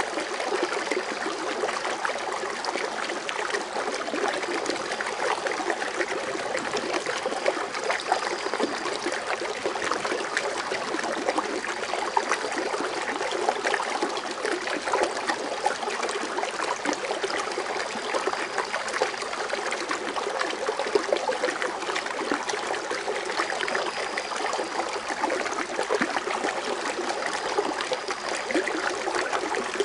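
Water fountain splashing and trickling steadily, a dense wash of small splashes.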